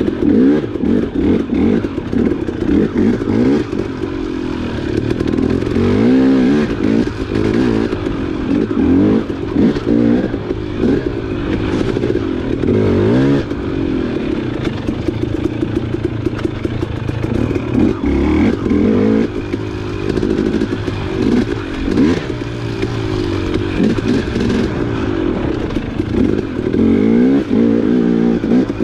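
Dirt bike engine being ridden hard, its revs rising and falling over and over as the throttle is worked.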